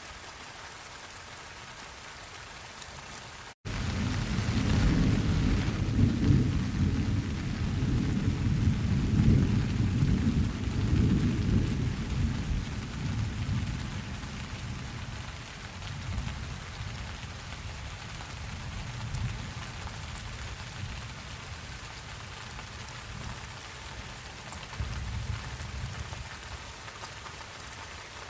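Steady rain, with a long roll of thunder that breaks in suddenly about four seconds in, right after a split-second dropout. The rumble is loudest for the next several seconds, fades over about ten seconds, and two fainter rumbles follow later.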